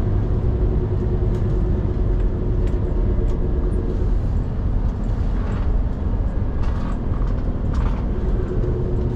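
Scania P360 XT skip truck's five-cylinder diesel running steadily on the road, a low rumble with tyre and road noise. A steady engine hum eases off about four seconds in, and a few faint rattles are heard.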